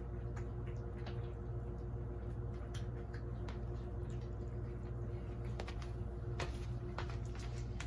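Cats eating wet food from their bowls: scattered small clicks, ticks and smacks from chewing and licking, over a steady low hum.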